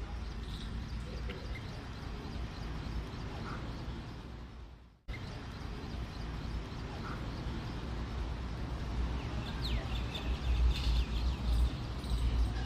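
Birds calling over a steady low outdoor rumble, with short harsh calls and a quick rising chirp in the later part. About five seconds in the sound fades away and cuts straight back in.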